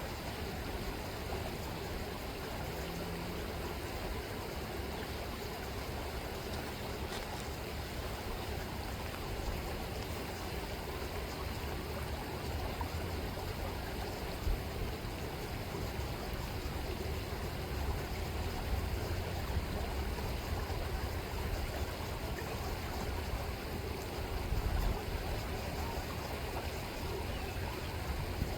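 River water rippling and flowing steadily, with an unsteady low rumble underneath.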